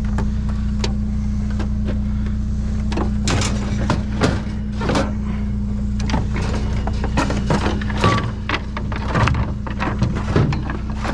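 A vehicle engine idling steadily while items are moved and set down, giving a run of knocks and clatters from about three seconds in.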